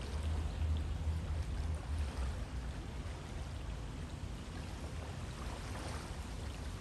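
River water flowing steadily: a continuous, even rush with a strong low rumble underneath.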